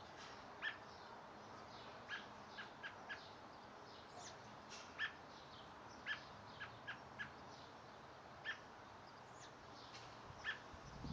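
A small bird chirping: about a dozen short, sharp chirps, each dropping quickly in pitch, repeated at irregular intervals over a steady background hiss.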